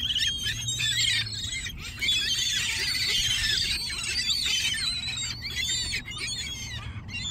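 A flock of gulls calling: many high, squeaky cries overlapping one another, thickest in the middle.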